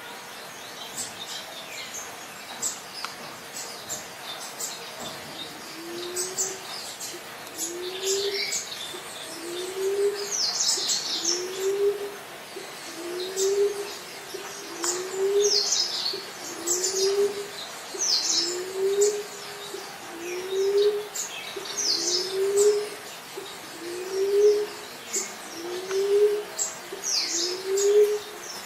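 Emerald dove cooing: a low, soft coo that rises slightly in pitch, repeated steadily about every second and a half. It starts a few seconds in, over high-pitched chirping from other birds.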